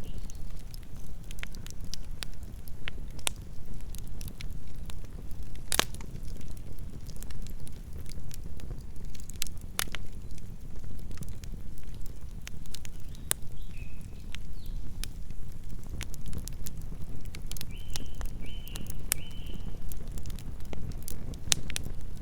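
Campfire burning: wood crackling and popping in sharp, irregular snaps over a low steady rumble, with one louder pop about six seconds in. Near the end come a few short high chirps, three in a row.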